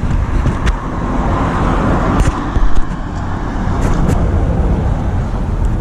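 A car's engine running close by, swelling and easing off between about one and three seconds in, over a steady low outdoor rumble, with a few light clicks.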